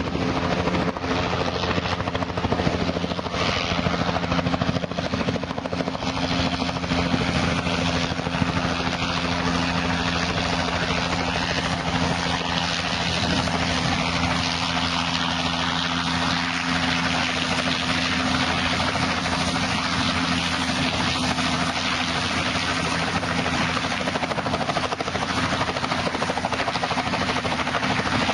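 Helicopter running close by, its rotor and turbine making a loud, steady noise with a low hum that fades out about two-thirds of the way through.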